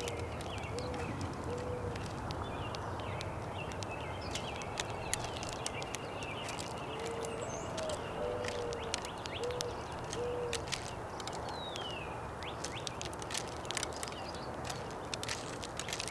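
Mourning dove cooing: a series of low, soft coos, the first sliding up and down and the rest level. The series ends about two seconds in and comes again from about seven to eleven seconds. Many sharp clicks and a few faint high chirps from small birds run alongside.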